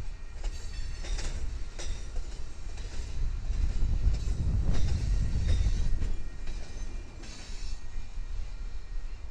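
Railroad cars rolling past at track level: a steady low rumble with irregular sharp clacks of wheels over the rail, and faint high wheel squeal.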